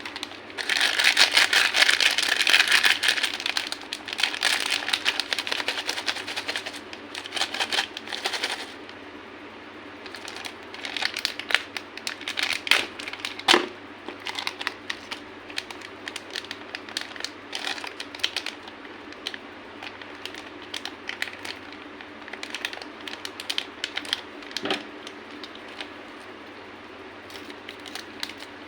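Candy being crushed: a dense run of crackling crunches for the first eight seconds or so, then sparser bursts of crackle with one sharp crack about halfway through, over a steady low hum.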